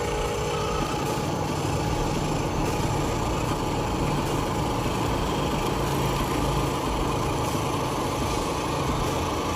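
Small electric motor and plastic gearing of a radio-controlled toy construction vehicle running steadily, a whine near the middle of the range over a rattly low rumble.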